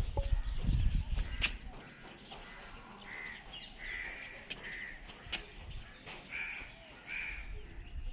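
A bird giving a series of short harsh calls, about five, from a few seconds in to near the end. A low rumble comes first.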